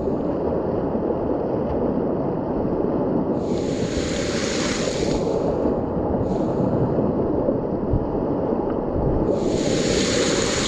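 Steady rushing of whitewater at a river wave, with louder hissing splashes swelling up twice, about three and a half seconds in and again near the end.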